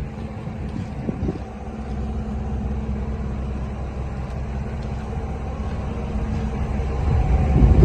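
Truck engine running steadily with a low hum, getting louder near the end.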